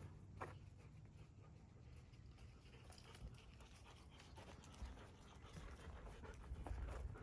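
Near silence: a faint low rumble with a few soft ticks.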